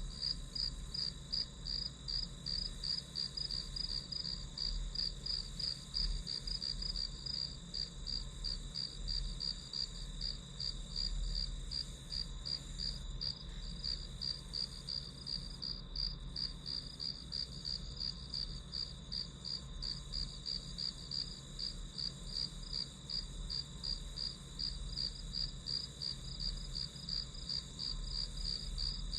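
Crickets chirping in an even, unbroken pulse, with a faint low hum underneath.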